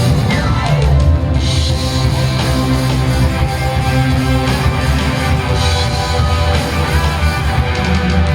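Live rock band playing an instrumental passage led by electric guitar over a steady bass line, with a pitch sliding down in the first second.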